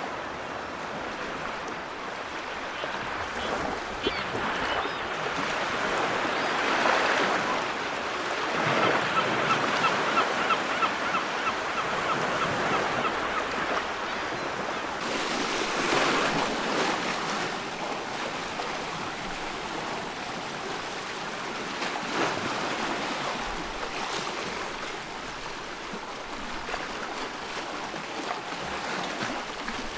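Sea surf washing ashore: a continuous hiss of water that swells with each breaking wave, the biggest surges about 7, 10 and 16 seconds in. A rapid run of short high notes sounds from about 9 to 14 seconds in.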